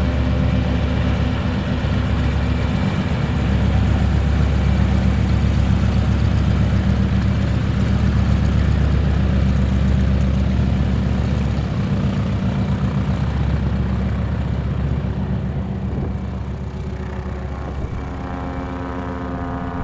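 An engine running steadily, swelling louder for a few seconds in the middle and easing off toward the end.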